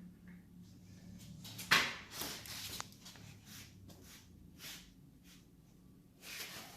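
Light knocks and scrapes of metal hand tools working on a motorcycle exhaust, with one sharper knock a little under two seconds in and a few more near the middle and end, over a faint steady hum.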